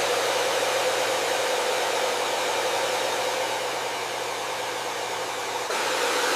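Hair dryer running steadily: an even rushing hiss of blown air over a low motor hum. About five and a half seconds in, the sound steps up slightly in level all at once.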